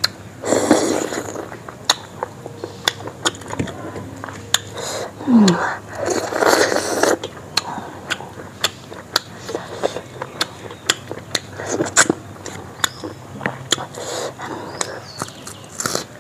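A person eating rice and chicken curry by hand and chewing with the mouth open: frequent sharp lip smacks and wet mouth clicks. Two longer, louder chewing stretches come about a second in and again around six to seven seconds.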